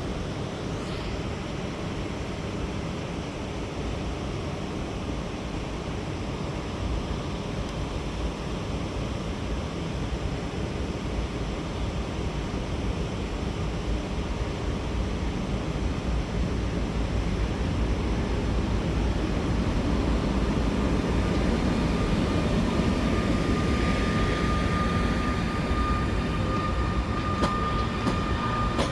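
Train running at a station platform: a steady rumble that grows gradually louder. A thin, steady high tone joins about three quarters of the way through, and a few sharp clicks come near the end.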